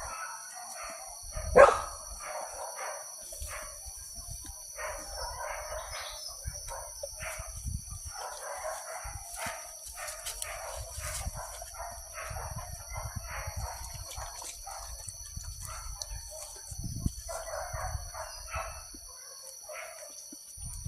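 Hunting dogs barking and baying in repeated, uneven bursts, with a sharp knock about one and a half seconds in.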